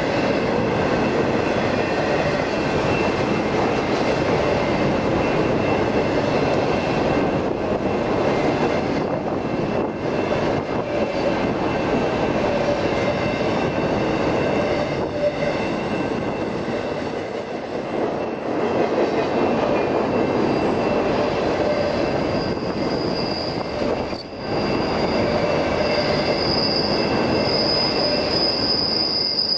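Freight train of autorack cars rolling past with a continuous rumble of steel wheels on rail. A thin high-pitched wheel squeal rises over it about halfway through and again through the last few seconds.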